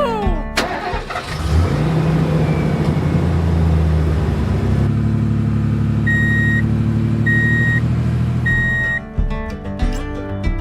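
A motor vehicle engine starts up and runs steadily at a low hum, with its tone shifting about halfway through. Three short, identical high beeps come near the end.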